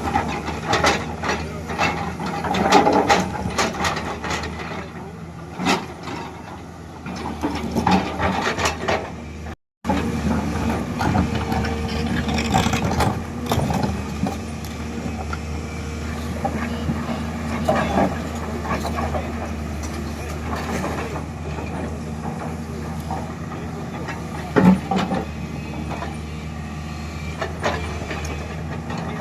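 Excavator's diesel engine running steadily, with repeated metallic knocks and clatters of the machine working. The sound cuts out completely for a moment a little under ten seconds in.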